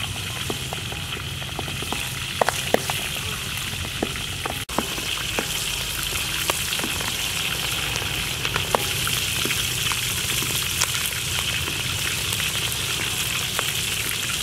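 Pork belly slabs frying in hot oil in a steel wok: a steady sizzle with scattered sharp pops.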